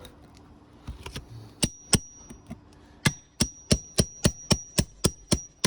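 Hammer striking a metal nail-removal tool to pull a roofing nail from under an asphalt shingle: a couple of strikes, then a steady run of about three to four ringing metal blows a second.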